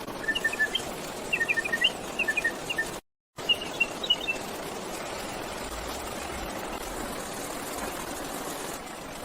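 Bird chirps: clusters of short, quick high notes in the first few seconds, over a steady rushing background noise.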